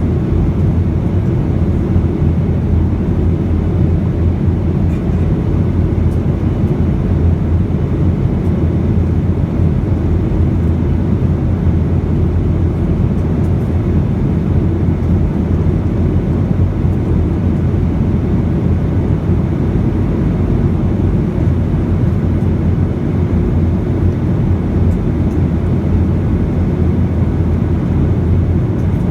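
Boeing 737 in flight, heard from inside the cabin: a steady, low drone of engines and rushing air that holds even throughout.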